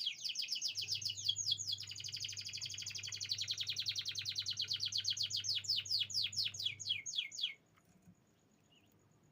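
A domestic canary singing fast trills of rapidly repeated, falling notes, changing from one trill to the next, with the song breaking off abruptly about seven and a half seconds in.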